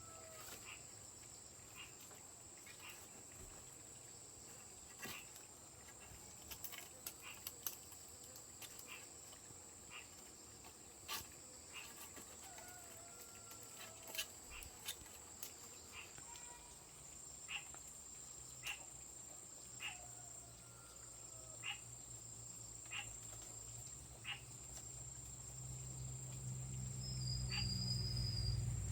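Steady high-pitched drone of insects, with scattered light clicks and taps and a few short bird calls. A low hum grows louder over the last few seconds.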